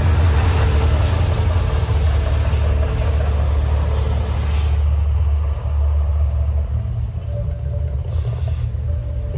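Deep, loud rumbling of the Mirage volcano show's eruption effects, with a hissing rush over it for about the first half.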